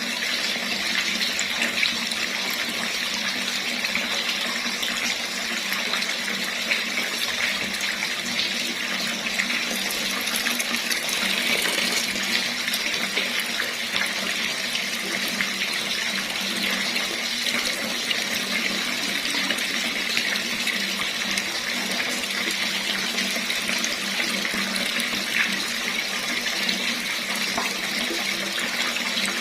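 Water running steadily from a tap: an even, unbroken splashing rush.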